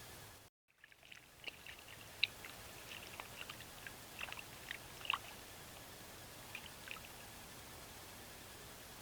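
Small irregular splashes and drips of water, a dozen or so over about six seconds, as a beaver moves in shallow water at its dam, over a steady hiss.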